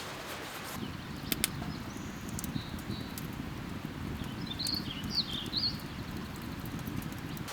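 A small bird giving a few short, wavering chirps about halfway through, over a steady low rumble, with a couple of sharp clicks about a second in.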